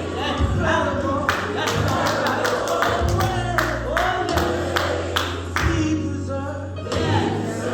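Gospel choir singing over a band with a deep bass line. A quick run of sharp, regular beats sounds through the middle.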